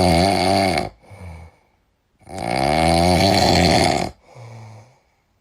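Loud snoring: two long snores about three seconds apart, each followed by a shorter, quieter breath.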